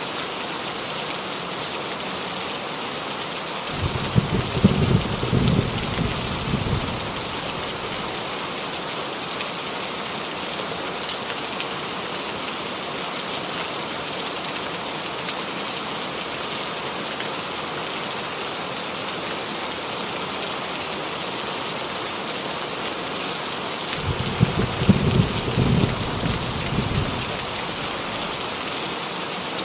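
Steady rain falling on a roof, an even hiss, with thunder rumbling twice, about four seconds in and again near the end, each roll lasting around three seconds.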